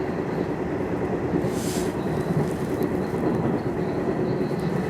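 Nishitetsu Tenjin-Omuta Line electric train running, heard from inside the car: a steady rumble of wheels on rail with a constant hum. About a second and a half in there is a brief hiss.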